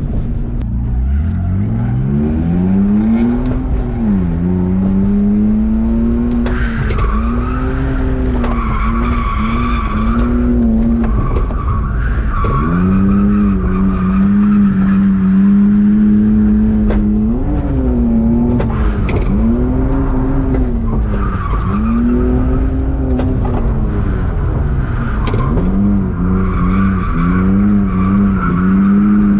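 BMW E46 drift car's engine revving up and falling back again and again, held high for a few seconds in the middle, with tyre squeal at times as the car slides through its drift.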